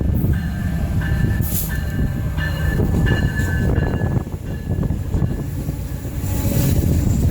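Train rolling past close by: a heavy, continuous rumble with short high-pitched squeals that come and go, typical of wheels squealing on the rails.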